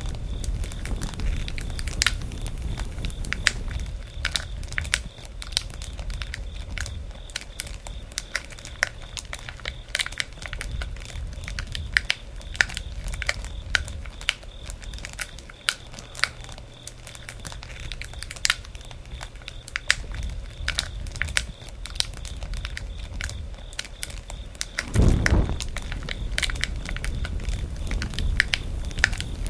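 Wood campfire crackling: irregular sharp pops and snaps over a low, steady rumble of the burning fire. Late on, a louder low rush swells for about a second.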